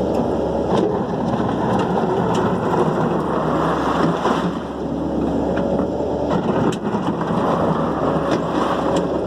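Dump truck running with a dense, steady rumble and scattered sharp clicks, the sound of the truck working with a load of stone.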